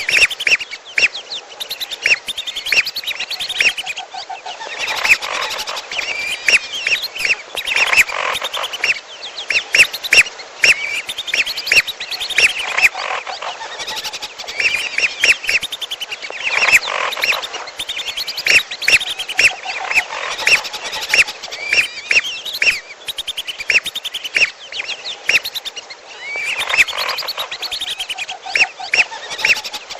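Bird-lure recording of whistling duck calls mixed with a second bird's calls: rapid, repeated short high whistled notes, with a lower pulsed call coming back every few seconds.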